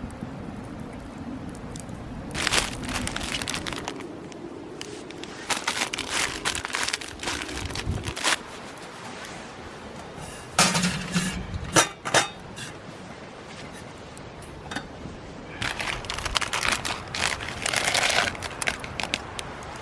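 Several bursts of crinkling and crunching handling noise, each lasting one to three seconds, with short pauses between them.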